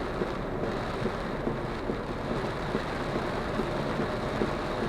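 Extremely heavy rain falling on a Maruti Suzuki Alto K10 car, heard inside the cabin as a steady dense noise, with the car's running sound underneath.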